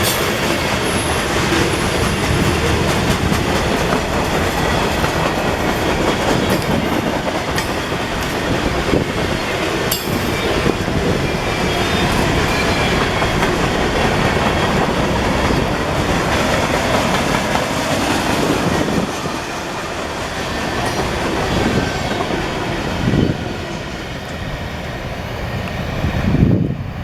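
Freight cars of a CSX manifest train rolling past, a steady rumble and clatter of steel wheels on the rails, with a faint high wheel squeal in the first couple of seconds.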